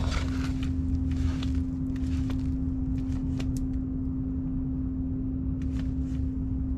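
A machine running with a steady hum over a low rumble, with scattered light clicks and knocks in the first few seconds and again near the end.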